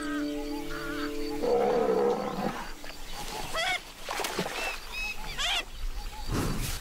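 Soft background music fades about a second and a half in, giving way to a short wavering call and then a run of short, high chirping calls that fall in pitch, from smooth-coated otters.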